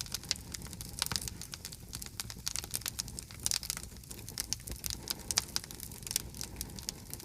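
Campfire of burning wood crackling, with irregular sharp pops and snaps over a low rumble of the flames.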